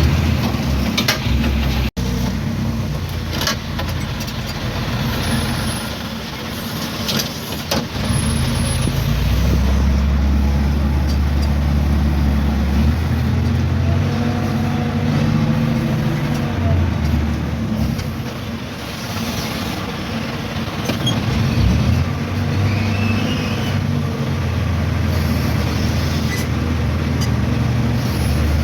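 Heavy diesel engine running, its level rising and falling, with a few sharp knocks in the first several seconds.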